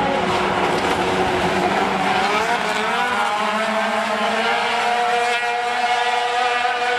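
Several racing sport truck engines running hard together as a pack, their overlapping notes rising as they pull out of a turn about two to three seconds in.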